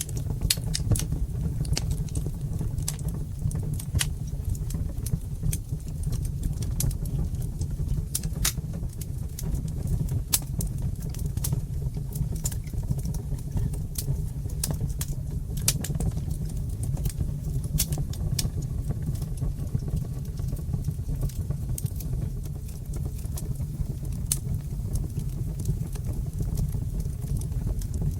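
Fire in a brick fireplace crackling: irregular sharp pops and snaps, several a second, over a steady low rumble of the flames.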